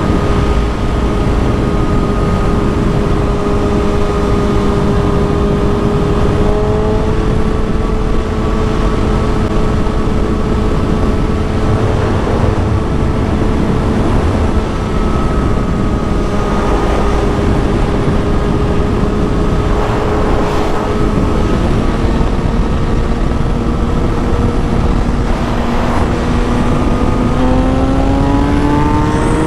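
Kawasaki Ninja ZX-6R's inline-four engine running at a steady cruising speed under a rushing noise. Near the end it revs up, its pitch rising as the bike accelerates.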